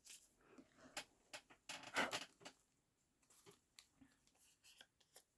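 Faint scratchy rubbing and light taps of a foam ink-blending tool worked over paper, loudest about two seconds in.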